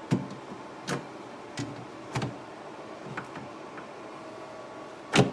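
Steady electrical hum of a running mini fridge, with about six sharp knocks and clicks at uneven intervals, the loudest near the end, like things being set down or a door and its parts being handled.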